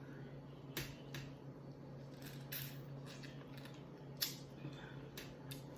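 Eating mussels: a handful of short clicks and light clatters from shells and utensils, the sharpest about four seconds in, over a steady low hum.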